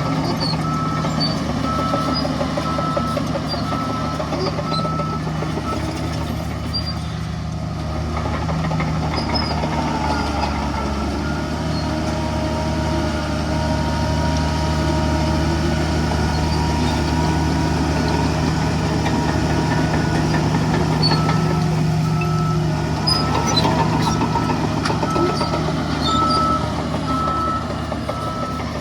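Heavy diesel earthmoving machinery running steadily under load. A reversing alarm beeps about once a second at the start and again from about 21 seconds in to the end.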